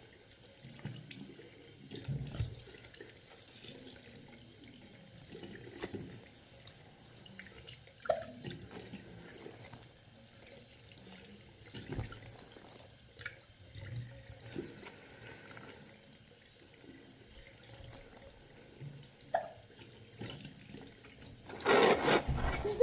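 Water running or splashing, with scattered small clicks and knocks; it gets louder in the last second or so.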